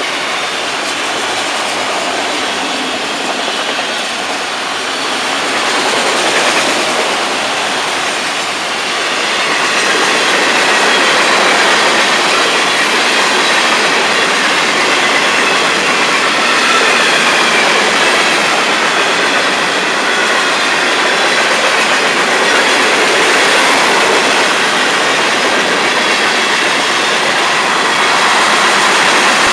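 Freight cars of a long Florida East Coast Railway train rolling past: a steady rumble of steel wheels on rail with clickety-clack and a faint wavering wheel squeal, a little louder from about a third of the way in.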